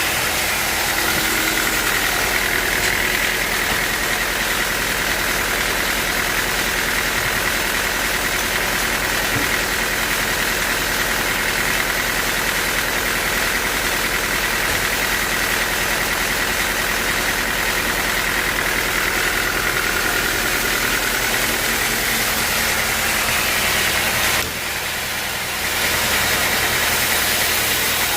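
Sawmill machinery running steadily with a constant high tone, dipping in level briefly near the end.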